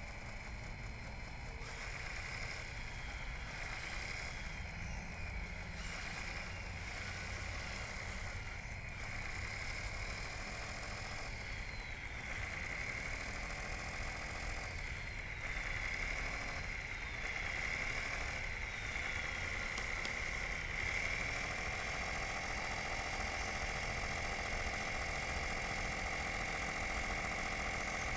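Radio-controlled model bulldozer running. It gives a steady high whine over a low rumble, and the pitch sweeps up and down again and again as it drives and manoeuvres.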